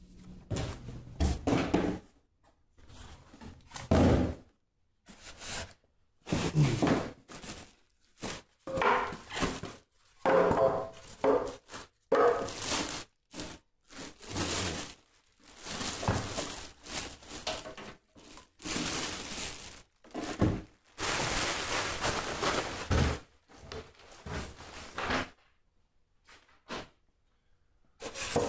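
Unboxing handling noise: cardboard and plastic packaging rustling and scraping in irregular bursts, with thunks as the heater and its parts are lifted and set down.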